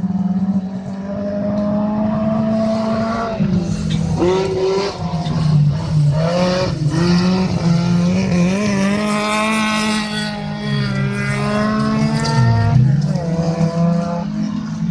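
Autocross race car engines at full throttle, several at once, their pitch climbing through the revs and dropping back as they lift off and change gear, with some tyre noise.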